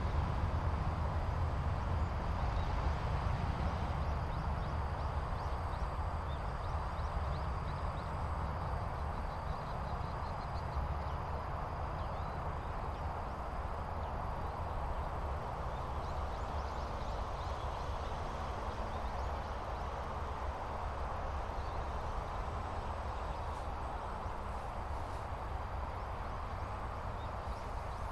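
A chat (stonechat or whinchat) giving faint, hard clicking 'tak' calls over a steady low rumble of wind-like noise, the rumble being the loudest thing throughout.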